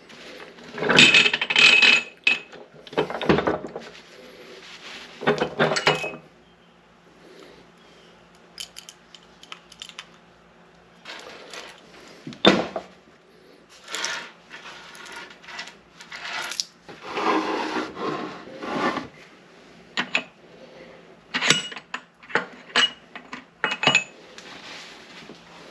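Steel parts of an NP205 transfer case being handled during teardown: irregular metal clinks, clanks and knocks, some with a brief high ring, separated by quieter pauses.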